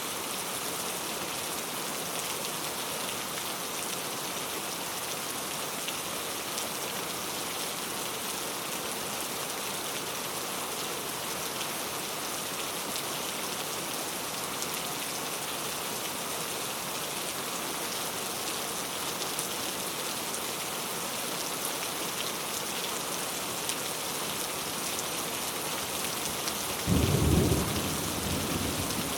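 Steady rain falling as an even hiss. About three seconds before the end, a sudden loud, low clap of thunder that fades over the next couple of seconds.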